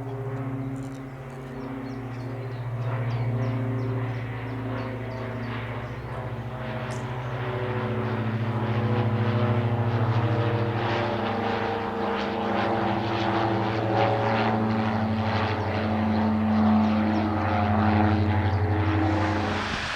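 Jet engines of a Boeing C-17 Globemaster III (four Pratt & Whitney F117 turbofans) running. They give a steady hum of several held tones that slowly shift in pitch and beat against one another, and the sound grows louder about eight seconds in. Just before the end it turns abruptly into a broad rush.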